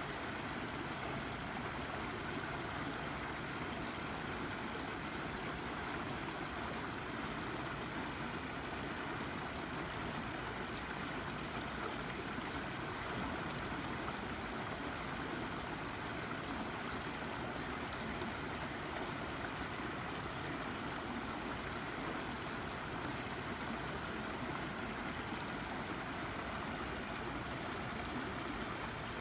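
Shallow brook babbling and trickling over a rock, a steady, even flow of water.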